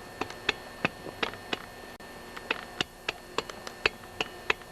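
The scored piston of a Husqvarna 346XP chainsaw clicking as it is rocked with a screwdriver through the exhaust port: light, uneven metallic ticks, about four a second. The piston is a bit loose in the bore.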